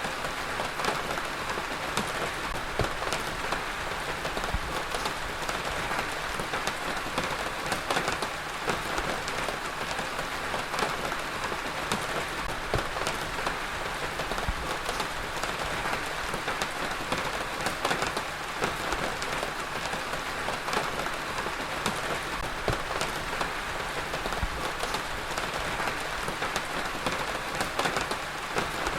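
Heavy rain falling steadily, a dense even hiss of drops hitting a surface with many small individual drop impacts.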